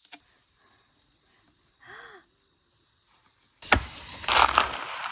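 Steady high insect buzz, with a short hooting call about two seconds in. Near the end a loud rustling, crackling noise starts suddenly.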